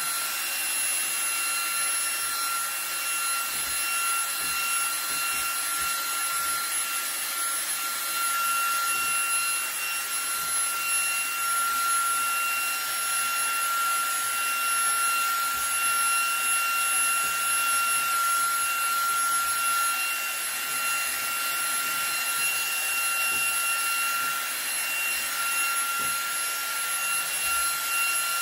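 eufy HomeVac H30 Mate cordless handheld vacuum running continuously on max power: a steady rush of air with a high, even motor whine.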